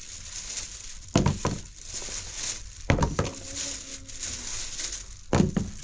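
Three short bursts of knocking, each a few quick knocks close together, about two seconds apart.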